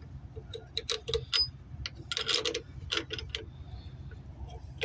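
Metal hand tools clicking and clinking irregularly while working on a car's lower engine mount. A short rattling run comes a little past the middle, over a steady low hum.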